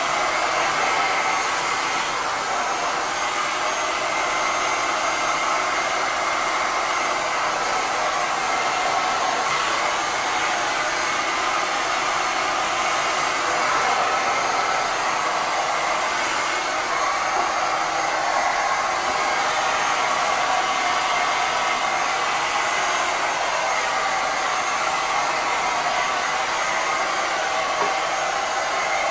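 Handheld hair dryer blowing steadily and without a break, drying a freshly washed furnace filter.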